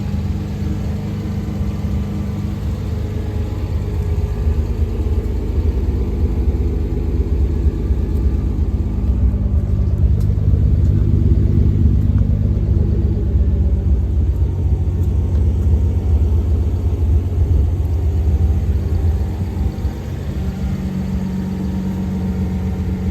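1990 Nissan 300ZX's 3.0-litre V6 engine and exhaust idling at a raised fast idle while warming up after a cold start. The idle is louder in the middle and drops a step near the end as the engine settles toward a lower idle.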